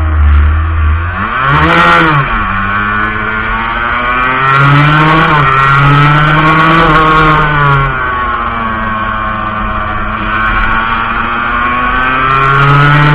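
Montesa Cappra 125's two-stroke single-cylinder engine heard on board while riding. The revs rise and fall repeatedly: they climb about two seconds in and again around five seconds, hold high, drop near eight seconds and climb again near the end.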